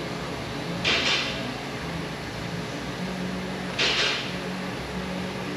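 Steady hum of a shop fan or air conditioner, with two short hissing bursts about three seconds apart.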